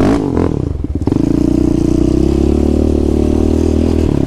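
ATV engine revving and pulling away, with a few knocks in the first second, then running steadily at higher revs.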